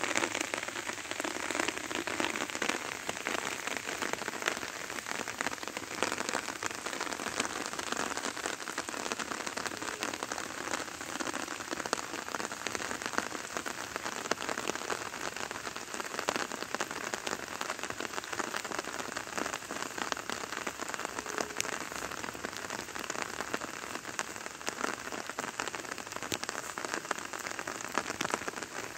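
Steady patter of rain, a dense run of fine drop ticks with no letup.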